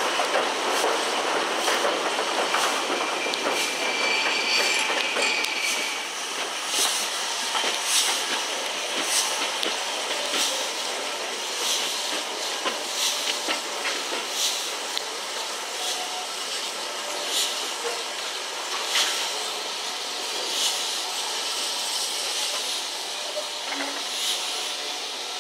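Steam-hauled train's coaches running along the track, heard from an open carriage window: a rushing noise with hiss, and wheels clicking over rail joints every second or so. A brief high squeal a few seconds in, and the rushing eases about six seconds in.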